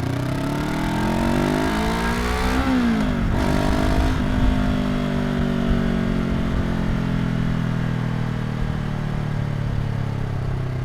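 Honda NX500 parallel-twin engine heard through its exhaust while accelerating: the pitch climbs for nearly three seconds and drops sharply at an upshift. It climbs briefly again, then holds steady and slowly sinks.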